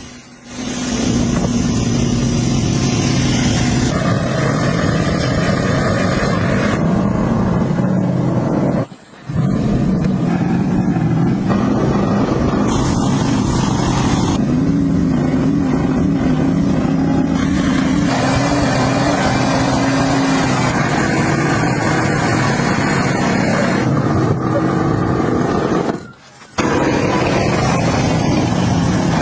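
A motor vehicle engine running steadily, heard in a string of edited clips that cut abruptly every few seconds, with two brief dips, about nine and twenty-six seconds in.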